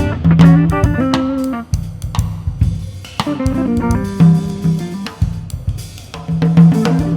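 Improvised instrumental music: a drum kit played busily, with bass drum, snare, hi-hat and cymbals, under held and shifting pitched notes from a twelve-string guitar.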